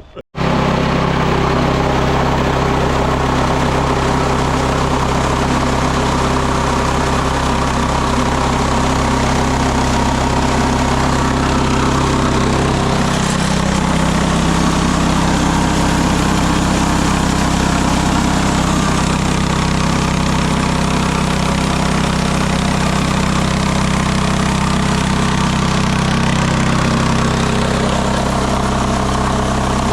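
Engine of a Mechmaxx SM-22 band sawmill running steadily. Its tone shifts about 13 seconds in and again near the end.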